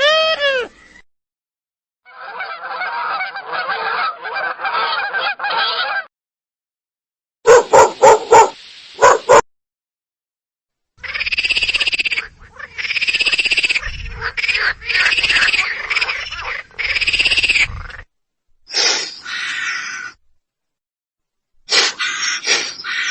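A run of separate animal call recordings, one after another with silent gaps between: a dense chattering stretch, a few loud pulsed calls, then a string of repeated arching cries, then two short calls near the end.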